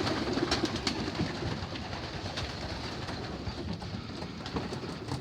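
A loft full of young racing pigeons cooing and shuffling, a steady low murmur of many birds with scattered wing flaps and light knocks.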